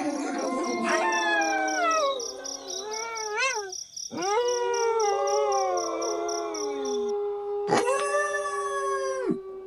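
A pack of wolves howling in chorus: several long overlapping howls that glide up and fall away, one held steady for several seconds. A fresh howl rises sharply about four seconds in and another near the end. Crickets chirp steadily behind.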